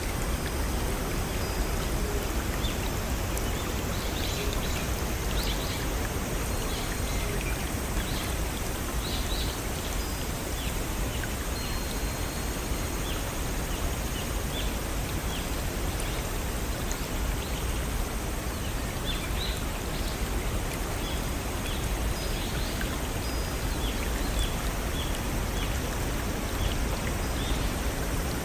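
Small waterfall and brook water rushing steadily, with birds giving short, high chirps scattered over it.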